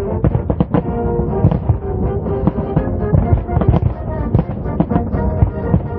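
Many fireworks bursts going off in quick succession, several bangs a second, over music.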